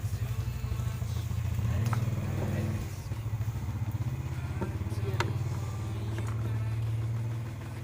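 An engine running steadily with a low, fast-pulsing hum that eases off near the end, with a few sharp clicks over it.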